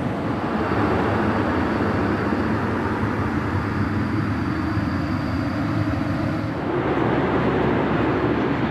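Cabin noise inside an Airbus A320-200: a steady rush of engine and airflow noise, whose tone shifts about two-thirds of the way through.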